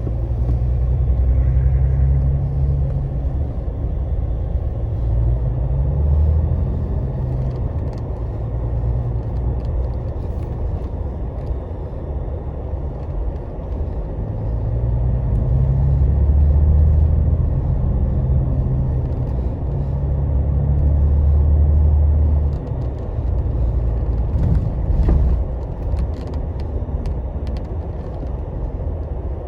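Scania double-decker coach's diesel engine and road rumble heard from inside the cabin, the low engine note swelling and easing as the bus pulls, with a drop about three-quarters through. A few light clicks and rattles come near the end.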